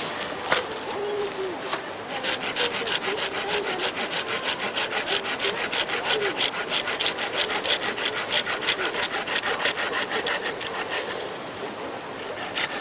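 Hand saw cutting through wood in quick, even back-and-forth strokes. It starts about two seconds in and stops shortly before the end.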